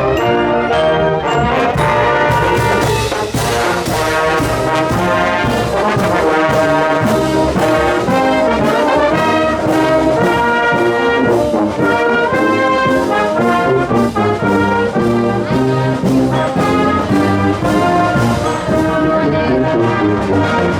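A school marching band playing: trombones and trumpets in full chords over a steady drum beat.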